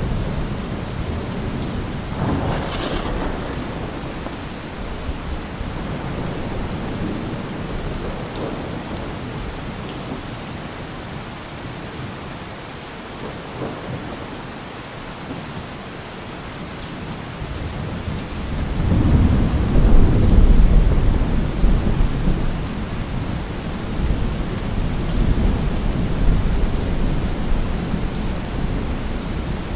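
Thunderstorm: steady heavy rain with rolling thunder. A rumble comes a couple of seconds in, and a louder, long rumble builds about two-thirds of the way through, then slowly dies away under the rain.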